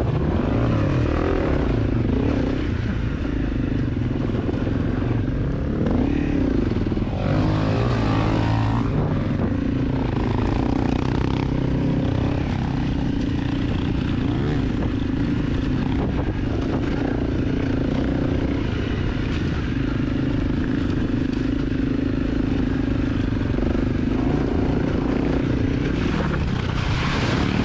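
A 250 cc dirt bike engine running at mostly steady revs, with a few brief rises and dips in pitch, over a dense rushing hiss that swells twice.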